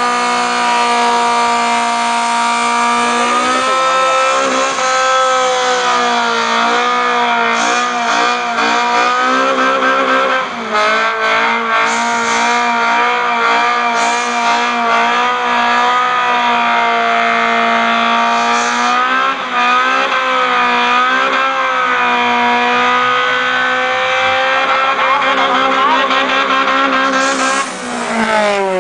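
Car engine revved and held at high rpm for a long stretch, its pitch wavering and briefly dipping, then the revs falling away steeply near the end.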